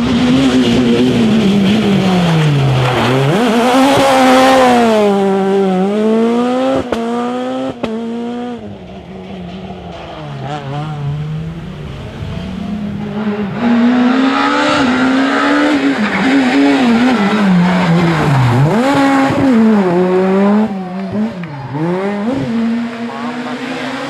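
Rally car engine revving hard through the gears, its pitch dropping sharply on lifts and downshifts and climbing again under acceleration, over and over. A couple of sharp cracks sound about seven to eight seconds in, and the engine fades somewhat in the middle before coming back loud.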